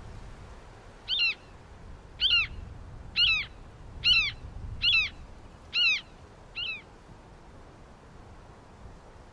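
A bird calling: seven short, sharp calls about one a second, each dropping in pitch, the last one weaker.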